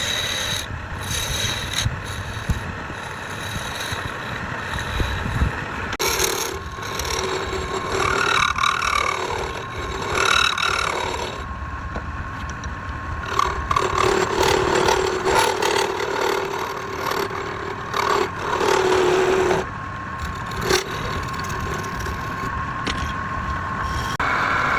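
Wood lathe running while a turning tool scrapes against the spinning workpiece, in repeated passes that start and stop every second or two.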